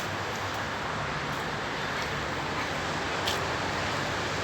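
Steady background rumble of distant road traffic, with one faint tick about three seconds in.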